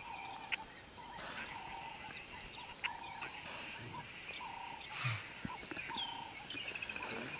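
Birds calling: a short whistled note repeated about once a second, and near the end a higher falling note followed by a quick run of chips.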